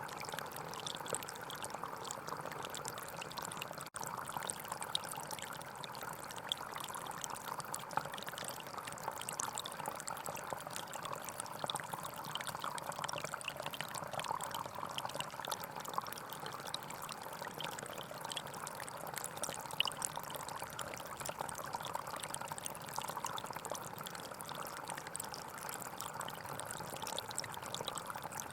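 Gentle forest stream flowing and trickling steadily, with a split-second gap in the sound about four seconds in.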